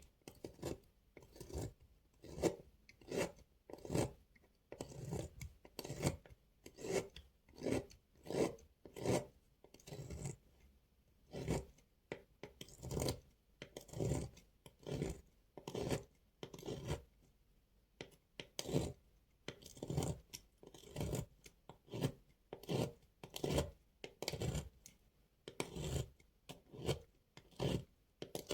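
A blade cutting through dry bar soap, a quick, even run of short crunchy rasping strokes, about one and a half a second, with brief pauses between them.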